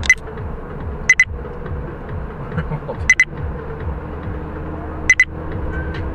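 Steady vehicle rumble, broken by four pairs of short, high electronic beeps, each pair a quick double beep, coming about every one to two seconds.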